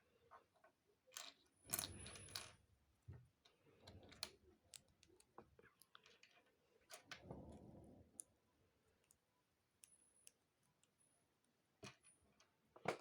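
Plastic Lego bricks clicking and rattling as they are handled, quiet: scattered sharp clicks with two short rustling bursts, and a louder click right at the end.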